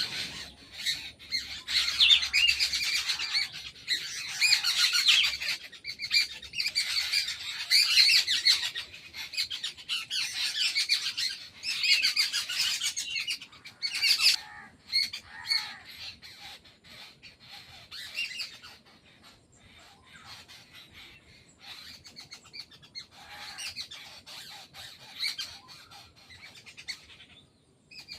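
A group of birds chirping and squawking, many calls overlapping. The calling is dense for the first half and thins out and quietens after about fourteen seconds.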